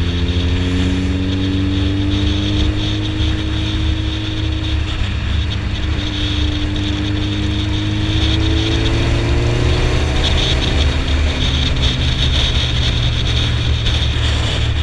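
Suzuki Hayabusa's inline-four engine running through an aftermarket M4 exhaust while cruising, its note slowly rising and falling with the throttle.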